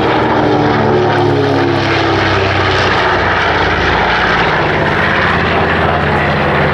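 Propeller aircraft engines running loud and steady, their pitch dropping slightly over the first two seconds as the aircraft passes.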